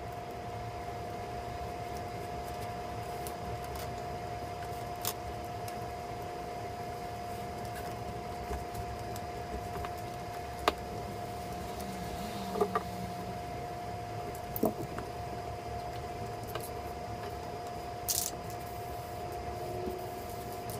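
Steady hum in a garage, with a few scattered light clicks and taps from hands fitting and pressing down foam floor pieces on a boat deck.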